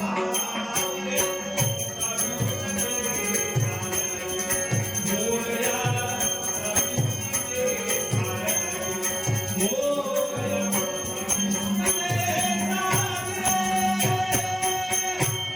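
Devotional Marathi hymn to Ganesh (a Dashavatar Ganesh stavan): a sung melody over held accompanying tones, with a steady drum beat and small cymbals ringing in time.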